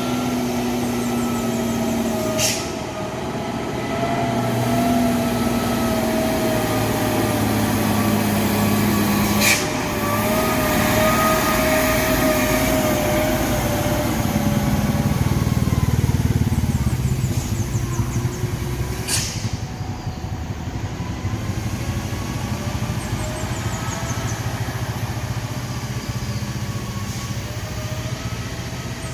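Heavy truck's diesel engine running under load, its pitch drifting slowly up and down. Three short sharp sounds cut through it, about 2.5, 9.5 and 19 seconds in.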